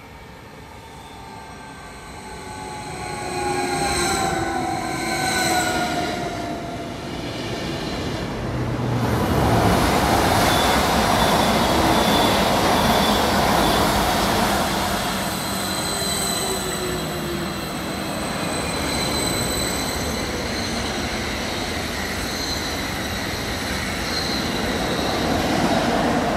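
An electric train coming into the station: a whine that slides down in pitch, then a loud, steady rush of wheels on rails as it passes close by, with thin high tones riding over the noise in the second half.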